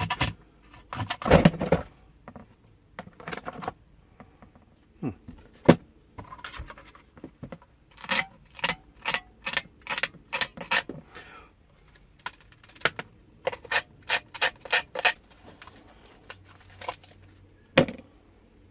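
Small parts of a plastic toy RC tank being handled and worked on: a series of sharp clicks and knocks with some rubbing and scraping, including a quick run of clicks about two a second in the middle.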